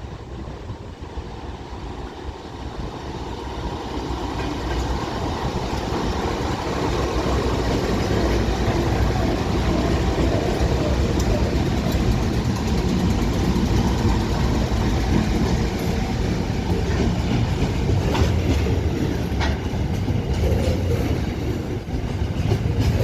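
A train approaching and running past on the tracks, its rumble building over the first several seconds and then holding loud and steady, with a few sharp clicks of wheels over rail joints near the end.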